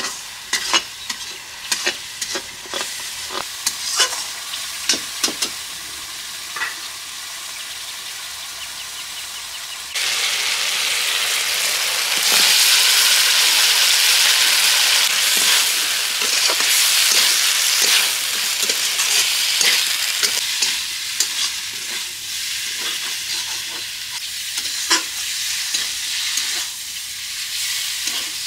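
Curry frying in a karahi, sizzling steadily while a metal spatula scrapes and knocks against the pan. About ten seconds in, the sizzle suddenly gets much louder for several seconds, then eases off, with the spatula knocks coming back.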